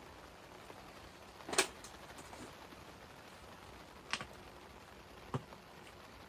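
Steady hiss of rain, with three sharp taps a second or more apart, the first the loudest.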